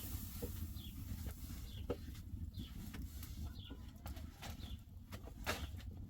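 A small bird chirping, one short high note about once a second, over a steady low rumble, with a few sharp clicks in between.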